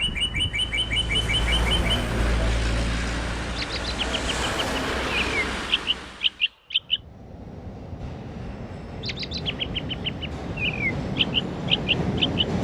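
Songbird calls: a rapid run of short chirps, then chirps and short falling whistles over steady background noise. The sound breaks off briefly a little past halfway, and a similar sequence of chirps comes again near the end.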